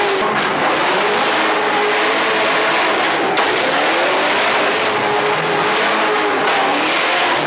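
Car engine revving hard, its pitch sweeping up and down in long arcs, over a loud steady rushing hiss. A single sharp crack comes about three and a half seconds in.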